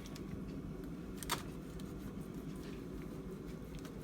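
Knife cutting through a rack of cooked baby back ribs, with one sharp knock about a second in, over a low steady hum.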